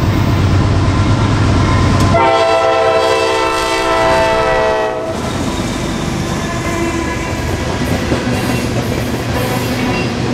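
Norfolk Southern freight train passing close: the lead GE AC44C6M diesel locomotive's engine rumble, then one multi-note locomotive horn blast of about three seconds, followed by the trailing locomotive and loaded covered hopper cars rolling by with a clickety-clack of the wheels over the rail joints.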